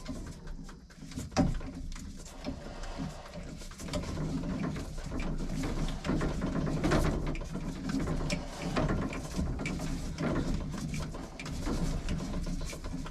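Irregular knocks, clicks and scraping from hands-on work with tools and fittings, with one sharper knock about a second and a half in.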